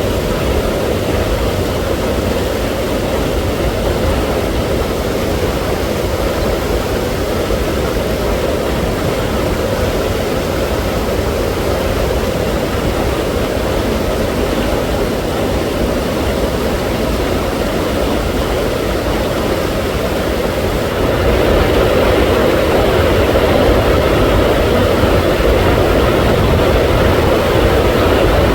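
A loud, steady rushing noise with a low rumble, growing somewhat louder about twenty seconds in.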